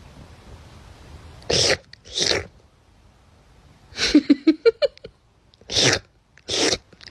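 Pug sneezing repeatedly: two sneezes, a quick string of short snuffles about four seconds in, then two more sneezes.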